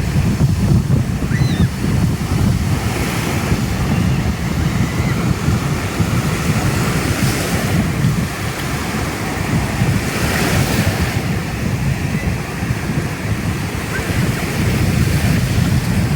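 Sea surf washing onto a beach, with hissing swells every few seconds, under heavy wind buffeting on the microphone.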